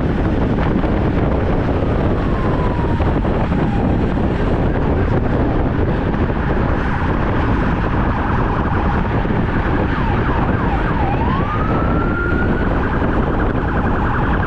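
Wind buffeting the microphone of a moving bike, with an emergency-vehicle siren wailing in the background, its pitch sweeping down and up and breaking into a fast warble at the very end.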